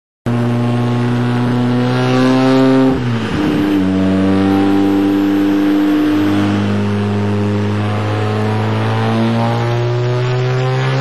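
Mazda RX-7's rotary engine under hard load on a chassis dyno, revs rising. The pitch drops abruptly about three seconds in, then climbs again steadily toward the end.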